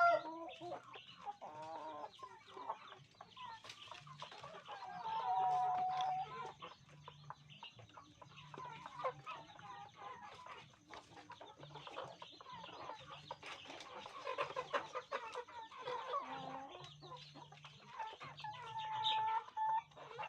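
Hens clucking and calling on and off, with many short sharp taps among the calls as they peck at their food; a longer drawn-out call comes about five seconds in and another near the end.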